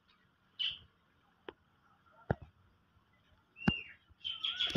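Birds chirping in short, faint calls, with a falling call and a quick run of chirps near the end. Three sharp snaps sound in between.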